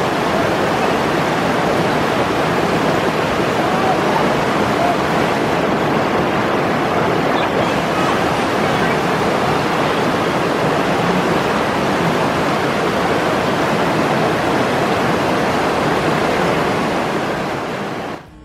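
Steady rush of white water through a river rapid, fading out near the end.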